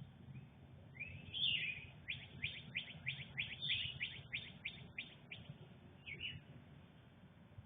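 A songbird singing nearby: a rising note, then a fast run of repeated downslurred whistled notes, about three a second, ending with a couple of looser notes.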